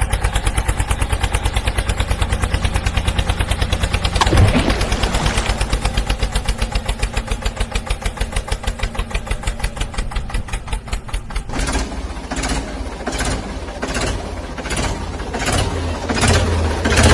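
An engine running with a rapid, even beat, surging briefly about four seconds in. Near twelve seconds the sound switches to a rougher running engine with stronger beats a little under two a second.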